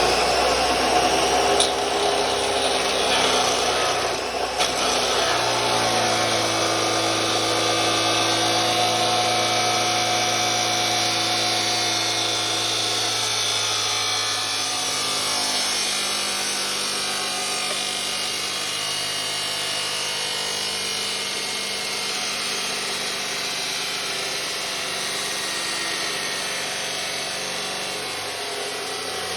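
DeWalt 14-inch abrasive chop saw running and cutting through steel pipe on a 45-degree miter. The motor's whine steps down in pitch about five seconds in as the wheel bites into the metal and is loaded, with the grinding of the cut over it.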